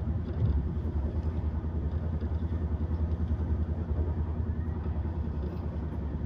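Steady low rumble of a passenger train running at speed, heard from inside the coach.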